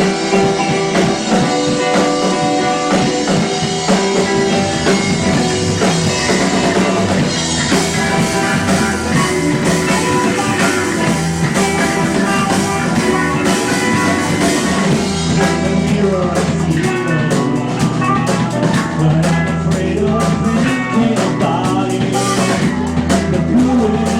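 Live rock band playing: electric guitars, bass and drum kit, loud and steady.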